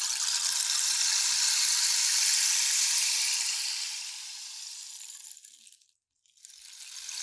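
Rainstick tipped over, its pebbles trickling down through the tube with a rain-like patter. The pour swells, then fades out about six seconds in, and after a brief gap a second pour begins near the end.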